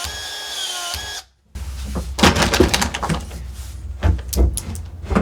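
A steady whine from a small motor stops about a second in. Then come irregular knocks, clicks and clatter of tools and plumbing parts being handled, over a low hum.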